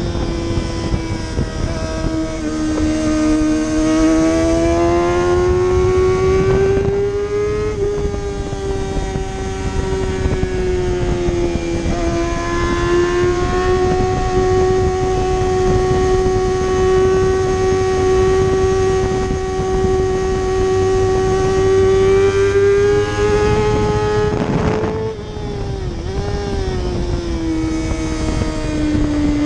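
Racing motorcycle engine running hard at high revs through the whole stretch, its steady note slowly rising and falling with throttle. About 25 seconds in the note breaks briefly, then settles lower.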